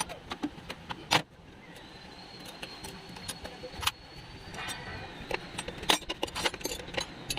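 Metal hand tools clinking and knocking during engine work: irregular sharp clicks and clanks of wrenches and sockets, with a louder knock about a second in.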